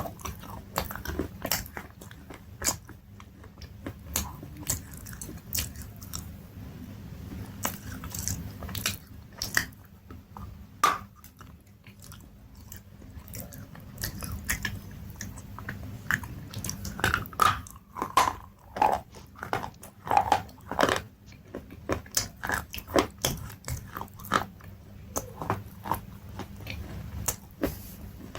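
A person biting and chewing something hard and crunchy close to the microphone: a long run of sharp, irregular crunches.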